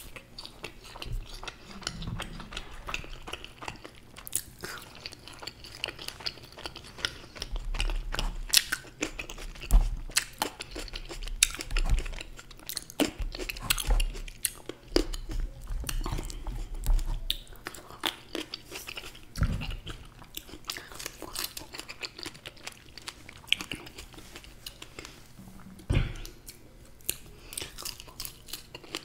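Close-miked chewing and biting of a marshmallow and green grapes, with many irregular sharp clicks and crunches.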